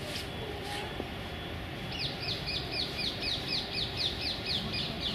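A small bird calling a rapid, even series of short, high, downward-slurred notes, about five a second, starting about two seconds in, over steady background noise.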